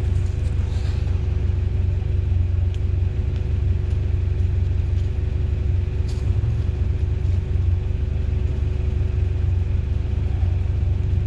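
Toyota truck running at low engine speed on a trail, a steady low rumble with a couple of faint clicks.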